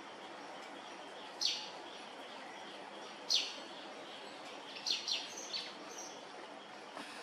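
Bird chirps: short, high calls that sweep quickly downward. Two come singly, then three or four follow in a quick cluster about two-thirds of the way in, over a steady background hiss.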